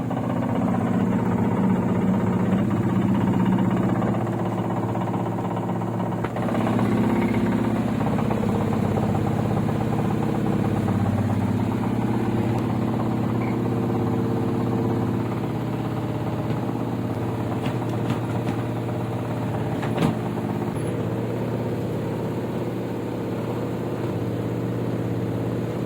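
LG washing machine on its spin cycle, running with a steady hum and a rapid knocking, with one sharper knock about twenty seconds in. The owner puts the knocking down, by all appearances, to an access cover left unfastened.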